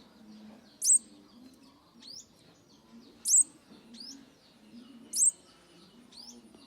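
Sunbird calling: three loud, very high, sharp call notes about two seconds apart, with fainter short rising notes between them.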